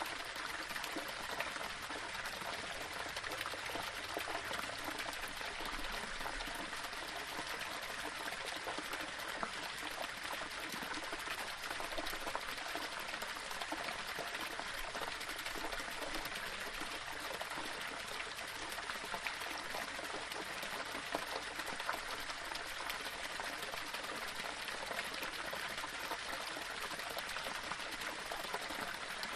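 Small waterfall splashing and trickling over stones: a steady rushing wash of water with small irregular splashes.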